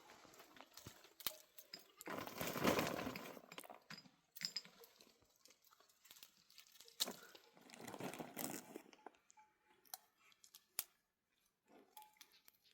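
Intermittent crunching and rustling, two longer spells a few seconds apart, with scattered sharp clicks between them.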